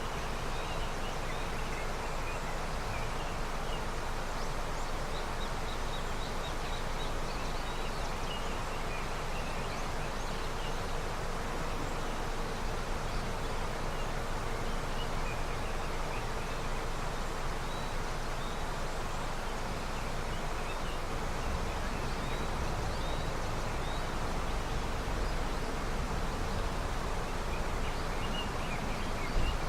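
A snowmelt river running with a steady rush of water, with scattered faint high chirps above it and a short low bump near the end.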